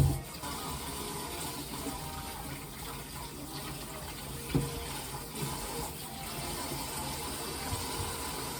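Steady running water, with a single knock about halfway through.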